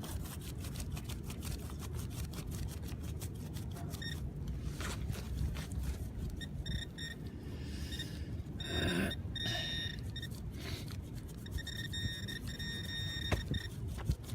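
Metal-detecting pinpointer beeping in rapid short pulses, on and off from about halfway and steadily near the end, as it homes in on a buried target. Wind rumbles on the microphone throughout, with a quick run of clicks and scraping in the first few seconds.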